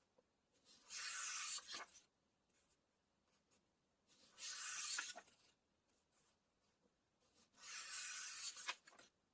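Paper book pages being turned three times, each a brushing swish of about a second ending in a light snap, a few seconds apart.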